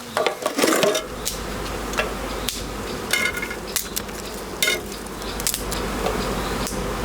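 Fire crackling, with irregular sharp pops and snaps, over a steady low buzzing of bees that sets in about a second in.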